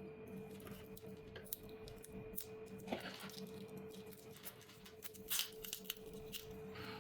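Faint small clicks and short scraping, scratchy sounds of hand tools working on a phone, over a steady electrical hum. One scrape comes about three seconds in, and a louder scratchy burst a little past five seconds.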